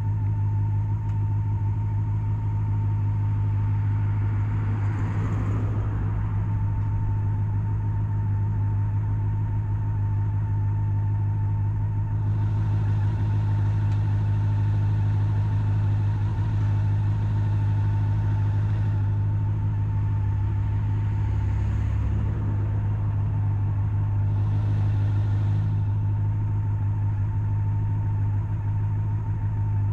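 Honda CB400SF Super Four's inline-four engine running at a steady cruise, a constant low hum with a steady higher whine over it, mixed with road and wind rush that swells a little a third of the way in and again near the end.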